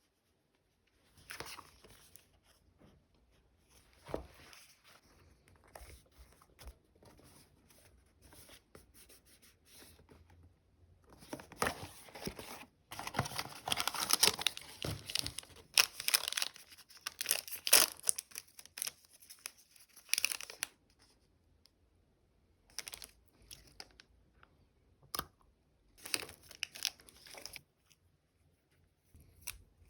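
Stickers being peeled off their backing sheets and plastic vinyl packaging crinkling, in irregular crackly bursts that are busiest and loudest from about twelve to twenty seconds in.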